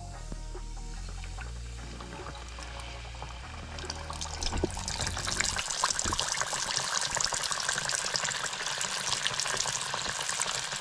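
Cornmeal-and-flour-coated bluegill frying in hot oil in a saucepan: dense sizzling and crackling that grows louder about four seconds in, once the fish is in the oil.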